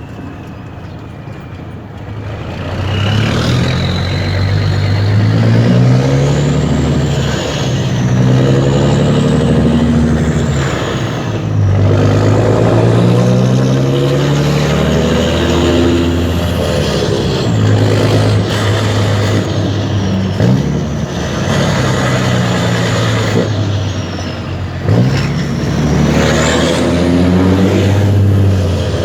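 Mercedes-Benz Actros 2636's V6 diesel engine on an open exhaust, pulling hard through the gears. The engine note climbs and drops back at each shift, about six times, with a high whistle rising and falling above it.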